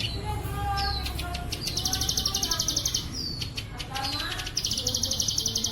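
Plain prinia (ciblek sawah) singing, with short downslurred whistles and twice a rapid buzzing trill of about a second, the cicada-like 'bren cililin' fill.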